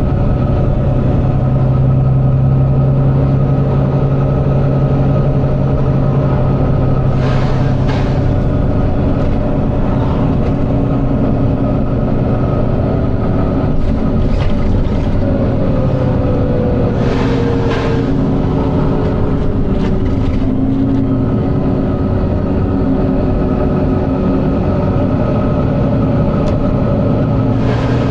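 Volvo B9TL bus's diesel engine running steadily, heard on board, with short air hisses twice, one pair about a third of the way in and another past the middle. A whine falls in pitch around the middle as the bus slows.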